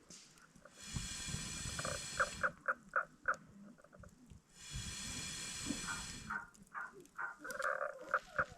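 Runs of short, high squeaky calls, about four a second, between two longer bursts of hissing.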